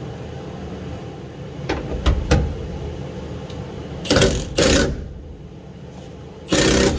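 Impact wrench hammering at a rusted cab bolt in three short bursts, the last about half a second long, after a few light clicks of the socket being set on.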